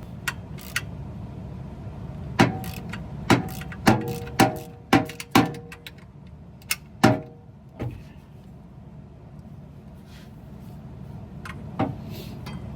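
A run of sharp metal clanks with a ringing tone, about seven knocks spaced roughly half a second apart and clustered in the middle: steel tools or parts being handled and knocked together in the truck's engine bay. A steady low hum sits underneath.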